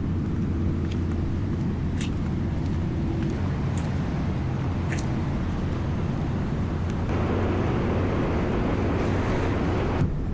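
Steady low engine rumble of idling vehicles, with a few faint clicks. A broader rushing noise swells in about seven seconds in.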